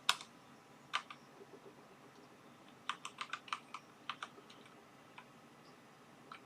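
A scattering of light, sharp clicks and taps from small parts and tools being handled at a workbench. There is a quick run of them about three seconds in and single ones elsewhere.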